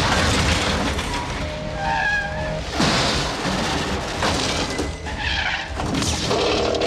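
Action-film soundtrack: music mixed with a series of heavy booms and crash impacts over a dense low rumble.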